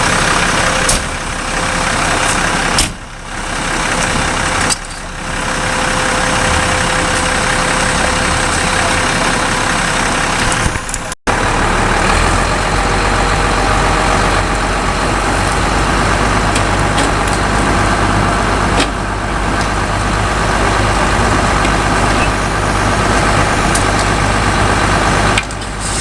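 Fire engine running steadily, a loud, even engine noise with a hiss over it. The sound breaks off sharply about eleven seconds in and resumes with a deeper low hum.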